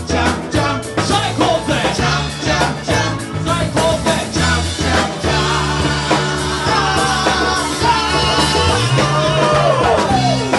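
Live band playing an upbeat rock song, with drums hitting hard and steadily for the first half, then held notes and a long falling pitch bend near the end.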